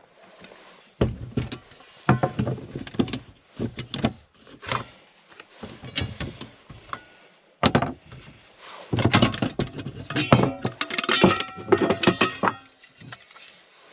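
Camp gear being handled and set down: a series of knocks and thumps, then a busier run of metal clinks and clatter with some ringing, like cookware and stove parts being put in place.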